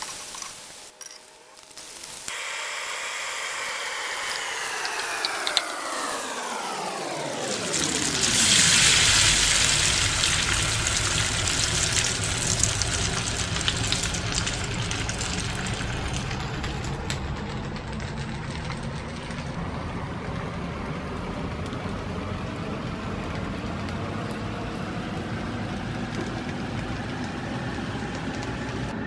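Food sizzling as it fries in a wok over a steady hum. A few seconds in, a hum with several pitches falls steeply in pitch, and the sizzling swells about eight seconds in.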